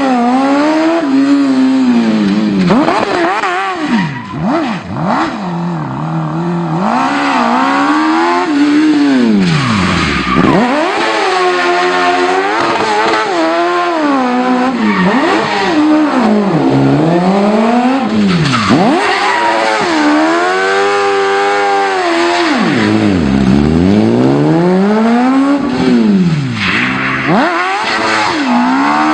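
Turbocharged Suzuki Hayabusa inline-four motorcycle engine in a Smart car, revving hard up and down over and over, its pitch rising and falling in repeated sweeps.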